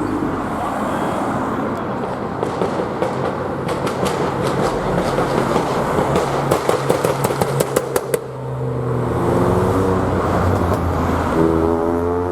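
Modified car engines running loud, with a quick run of sharp pops and cracks in the middle. The noise then settles to one engine's steady note, which revs up near the end.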